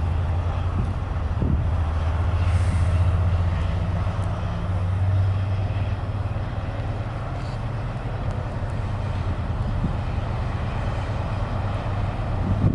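Diesel train engine running with a steady low drone, a little louder a few seconds in and then easing off slightly.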